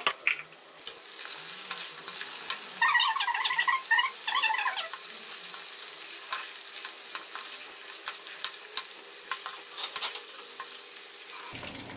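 Kofta meatballs deep-frying in hot oil in an aluminium karahi: a steady crackling sizzle, with a metal ladle stirring and turning them. A brief squeaky, pitched sound rises above the sizzle between about three and five seconds in.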